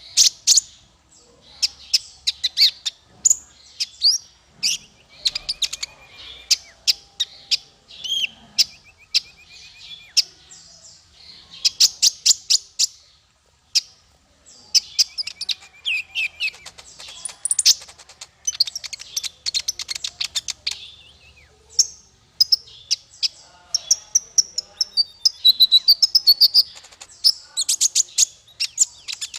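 Songbird singing a fast, varied song of sharp chips, trills and whistled notes, broken by a few brief pauses.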